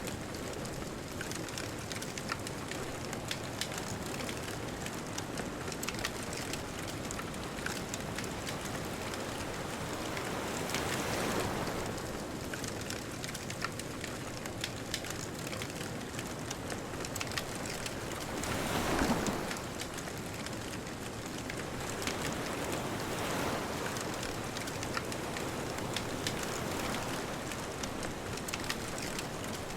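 Bonfire crackling with many small pops over a steady hiss, while ocean waves wash in: one swell about a third of the way in, a louder one a little past halfway, and a softer one soon after.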